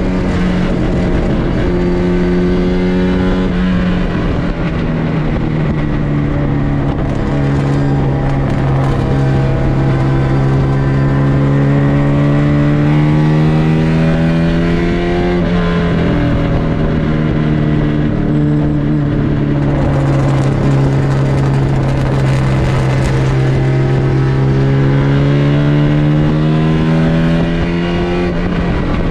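On-board sound of a racing MGB's 1.8-litre B-series four-cylinder engine under hard load. Its revs climb slowly and steadily, drop sharply about halfway through, then climb again and drop once more near the end.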